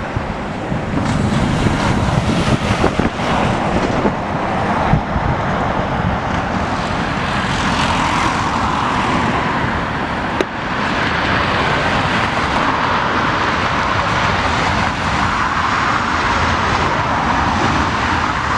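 Jet airliner engines heard during a landing approach, a steady roar with a band of engine tone that strengthens about halfway through. Gusts of wind buffet the microphone, strongest in the first few seconds.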